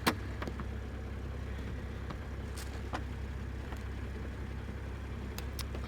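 Toyota GR Supra engine idling with a steady low hum, with a few light clicks and knocks of hands working at the car's trim.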